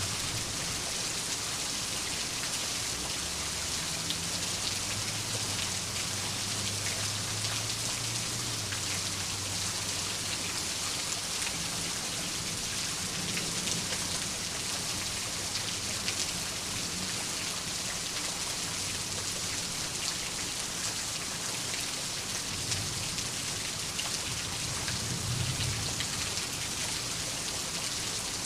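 Steady rain, a dense even hiss with scattered drop ticks, and faint low rumbles of distant thunder a few seconds in and again near the end.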